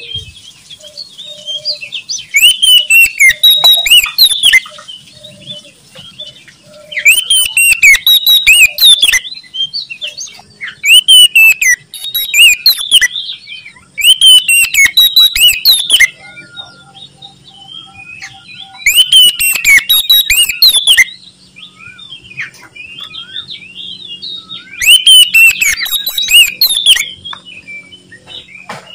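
Oriental magpie-robin (kacer) singing loudly in repeated bursts of rapid, varied whistled notes, each burst about two seconds long with short quieter pauses between.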